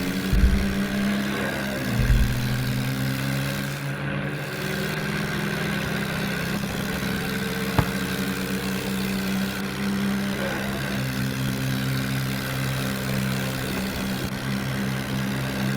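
Heavy diesel engine of earth-moving or farm machinery running steadily at constant speed, with a couple of low thumps near the start and a single sharp click about eight seconds in.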